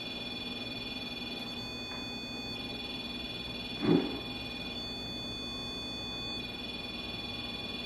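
An EMF detector's electronic alarm sounding continuously: several steady high tones held together, one of them cutting out and back in twice. A single brief lower sound comes about four seconds in.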